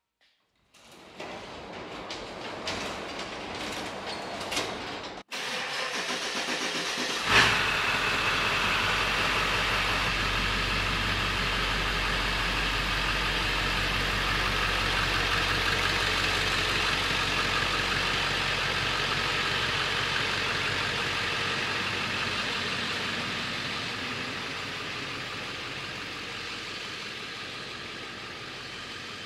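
A car engine cranks and catches about seven seconds in, then runs steadily with a low rumble that slowly fades near the end. Before it starts there are a few faint clicks and knocks.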